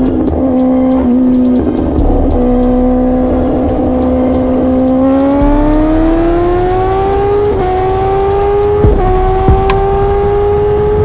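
Superbike engine running at high revs, holding steady, then rising in pitch about five seconds in, with a gear change near eight seconds before holding at a higher pitch. Background music with a steady beat plays over it.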